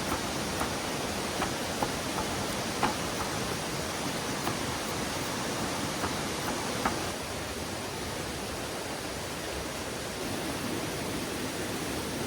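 Mountain stream water rushing steadily, with a few short sharp ticks in the first seven seconds.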